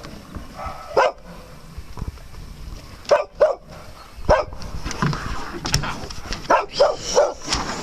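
A dog barking in short single barks, about eight of them at irregular intervals and closer together near the end, as it wants the ball in play.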